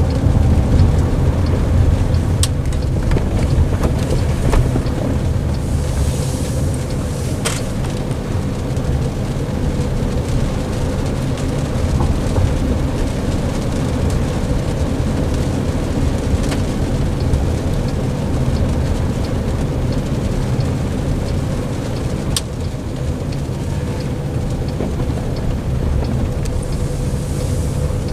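Inside a car's cabin while driving on wet roads in rain: a steady low rumble of tyres and road with a faint steady hum. A few sharp clicks and a couple of brief hissing swells stand out.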